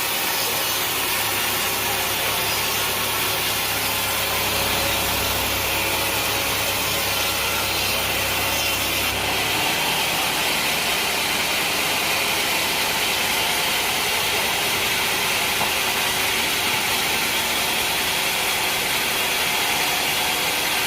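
Sawmill saw cutting through a mahogany log: a steady, loud sawing noise at an even level, with a low machine hum underneath that drops away about halfway through.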